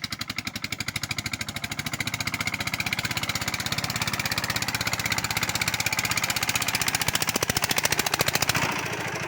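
Single-cylinder Changfa 190 diesel engine of a loaded bhutbhuti motor van running hard under load as the van is driven up out of a field onto the road: a fast, even chugging that grows louder, then eases off near the end.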